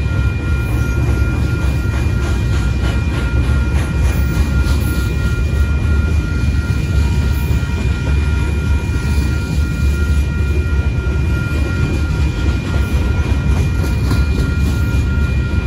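Loaded freight train of centerbeam lumber cars rolling through a grade crossing: a steady loud rumble of wheels on rail. Over it runs a constant high ringing from the crossing's warning bell.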